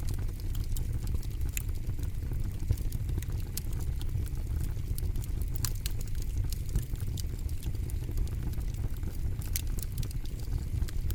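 Campfire burning, with a steady low roar from the flames and frequent irregular sharp crackles and pops from the burning wood.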